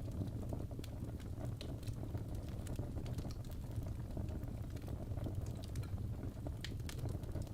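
Crackling fire with sharp, irregular pops and snaps over a steady low rumble.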